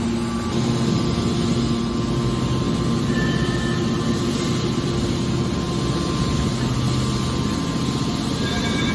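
Hydraulic car scrap baler running: a steady machine hum with a noisy rumble, and brief high squeals now and then.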